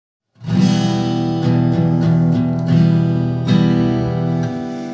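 Acoustic guitar strumming sustained chords. It starts about half a second in, with fresh strums every second or so.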